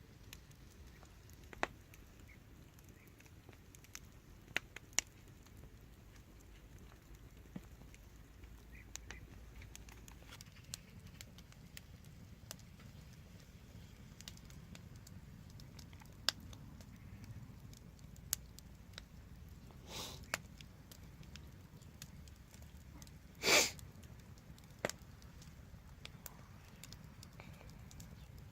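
Wood fire crackling, with scattered sharp pops and ticks over a low steady rumble; one louder pop about three-quarters of the way through.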